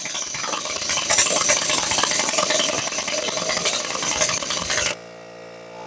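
Impact wrench hammering rapidly on a tractor wheel lug nut that is still not breaking loose. It stops suddenly about five seconds in, leaving a quiet steady hum.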